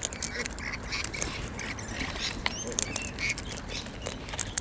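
A flock of wild parrots at a feed, giving short harsh squawks and chatter, mixed with many sharp clicks and taps.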